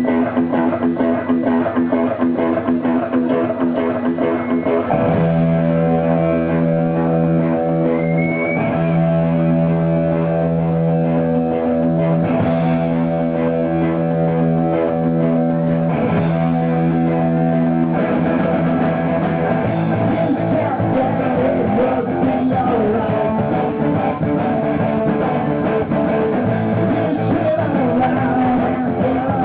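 Rock band playing live with electric guitar and bass guitar; about five seconds in a chord is held steadily, and near the eighteen-second mark the playing turns busier.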